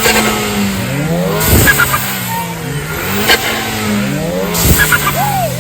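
Car engine revved repeatedly, its pitch rising and falling, with a sharp crack about every second and a half.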